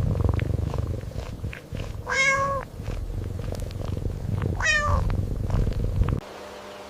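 Domestic cat purring, with two short meows about two and five seconds in, the second falling in pitch. The purring cuts off suddenly near the end.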